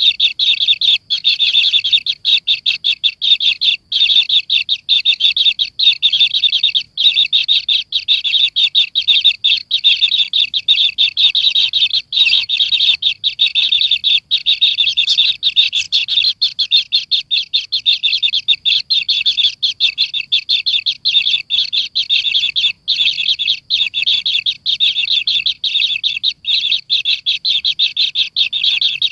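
Kingfisher nestling calling in a rapid, unbroken run of high chirps, many to the second, with only a few brief breaks.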